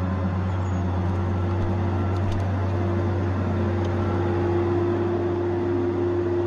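Tigercat 870C feller buncher running steadily: a constant low engine drone with a steady whine above it that grows a little stronger partway through.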